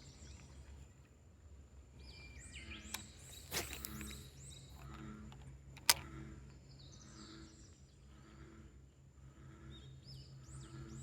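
Birds chirping over outdoor ambience, with a low call repeating a little faster than once a second and one sharp click about six seconds in.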